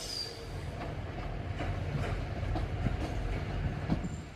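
Passenger train moving slowly through the station: a low rumble with the wheels clicking over rail joints and points, and a brief high wheel squeal at the very start.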